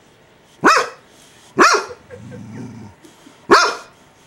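Dog barking in alarm three times, sharp and loud, at an oscillating electric heater it takes for an intruder. A quieter low sound runs between the second and third barks.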